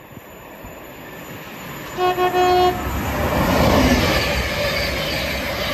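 Thameslink Class 700 electric multiple unit sounds a short single-note toot of its horn about two seconds in, then runs past at speed with a rising rush of wheel and traction noise.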